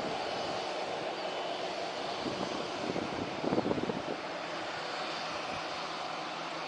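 Airliner engines heard as a steady noisy rush, with a rougher, crackling rumble swelling briefly around the middle before easing off.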